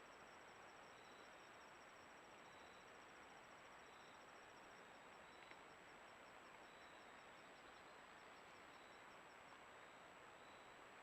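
Faint insects calling over a steady hiss: a fast high pulsing trill that slows about halfway through, and a slower high chirp repeating about once a second. There is a steady high whine, and a single faint click about halfway.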